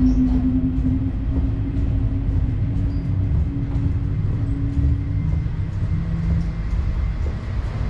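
A vehicle running with a steady heavy low rumble and a hum whose pitch drops about five seconds in.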